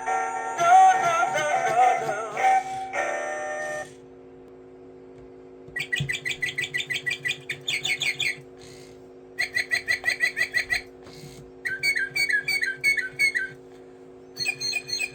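Music with a singing voice ends about four seconds in. A toy singing bird then chirps in rapid high whistled trills, three bursts of one to two seconds each, over a steady low hum.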